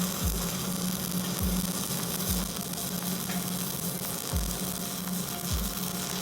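Stick-welding arc from a 1/8-inch E6013 electrode burning steadily: a continuous crackling sizzle over a low, steady hum.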